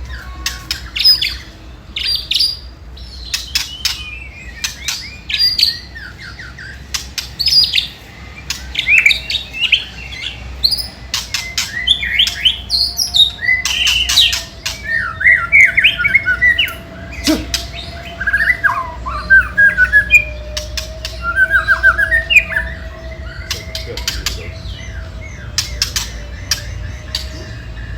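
White-rumped shama calling, mixing harsh rattling clicks (the 'ketrekan' chatter) with short whistled and chirped notes. This agitated, fighting-mode calling is used to provoke other shamas. A faint steady hum runs underneath.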